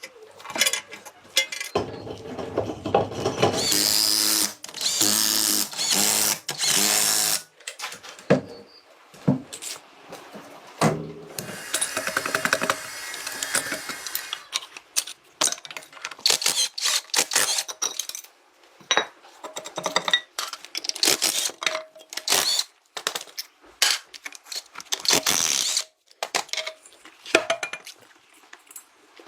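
A power tool runs in bursts, the longest for several seconds a couple of seconds in and a higher whine later, amid many short clicks and knocks of tool work.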